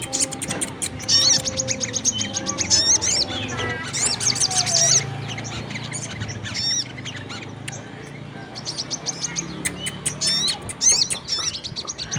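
Lure-call recording of sogon and kolibri kelapa (brown-throated sunbird) calls mixed together: rapid high chirps and trills, thinning out for a few seconds in the middle and then picking up again. It is a call used to draw birds of these kinds to gather.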